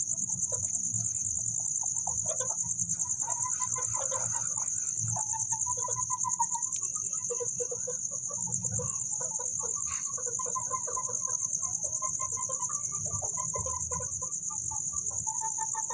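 Chickens clucking and calling in short, irregular notes, over a continuous high-pitched insect trill that is the loudest sound throughout.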